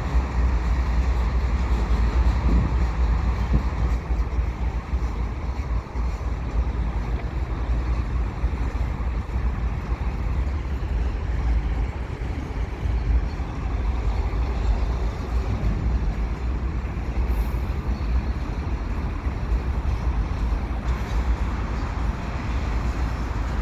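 Slow freight train passing, hauled by GE ES44AC and AC4400CW diesel locomotives: a steady rumble.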